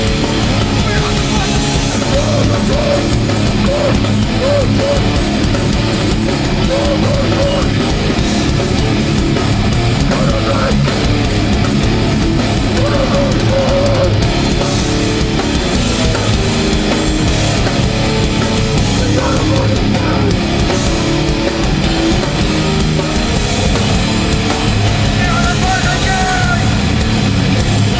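Hardcore punk band playing live, loud and steady, with distorted guitars and drums.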